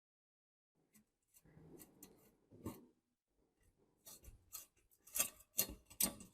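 Rusty metal parts of an antique kerosene table fan being handled and worked by hand: a series of sharp clicks and knocks with short scrapes between them, coming faster and louder in the last two seconds.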